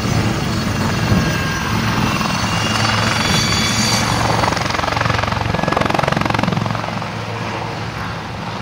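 Westland Lynx HAS.Mk.8 helicopter in flight: a steady rotor chop with a high turbine whine over a low hum. The whine drops away about halfway through, and the whole sound grows somewhat fainter near the end.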